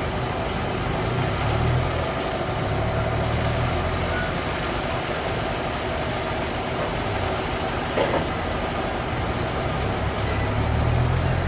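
Bandsaw sawmill running steadily, a low mechanical drone under an even noisy hiss, with one sharp knock about eight seconds in.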